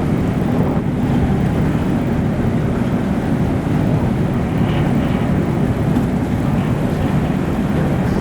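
Passenger ferry's engine running at a steady low drone under way, mixed with the rush of water and wind on the microphone.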